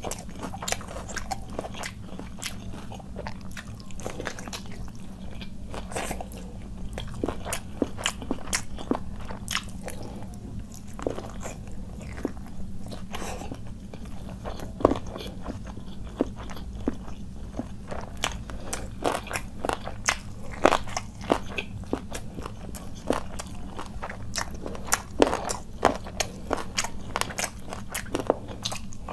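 Close-miked chewing of a person eating khichuri and chicken curry by hand: wet mouth smacks and crunching clicks, several a second, some louder ones standing out, over a low steady hum.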